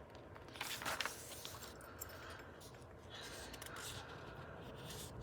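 Paper rustling and sliding as book pages are handled and turned, in two brief flurries: one about a second in, another around three to four seconds in.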